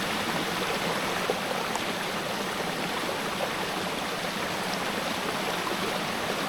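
Steady rushing of a rainforest creek's flowing water.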